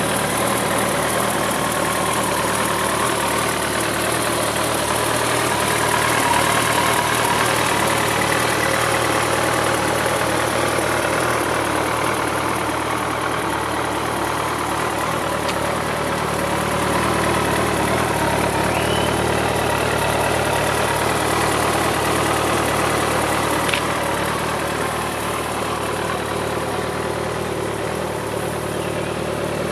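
Kawasaki ZZR1400's inline-four engine idling steadily.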